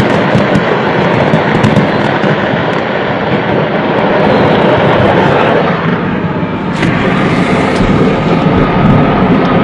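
Burning stock of fireworks going off in a dense, continuous barrage that blends into one loud, steady din, with sharp crackles on top.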